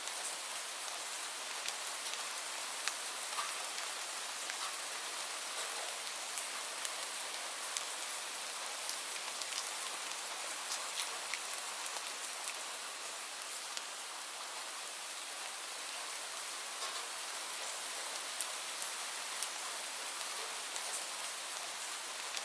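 Steady rain falling, an even hiss with individual drops striking sharply here and there.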